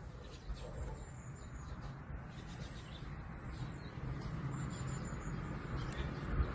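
Small bird calling faintly outdoors: two thin, high chirping calls, one about a second in and another near the end, over a low steady rumble.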